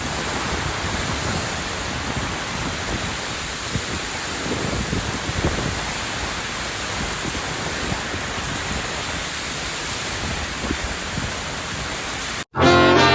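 Heavy thunderstorm downpour: rain falling as a steady hiss. It cuts off suddenly near the end, where brass music begins.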